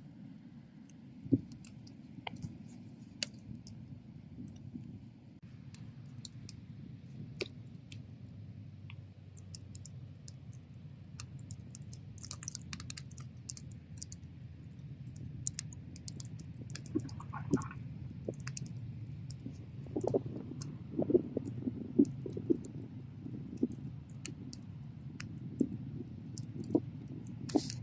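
Wood bonfire burning: a steady low rush of flames with irregular sharp crackles and pops throughout, a few of them louder.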